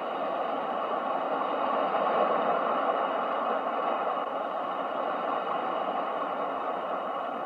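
Ocean waves recorded as a sleep sound: a steady rushing wash of surf that swells a little about two seconds in and then eases off slowly.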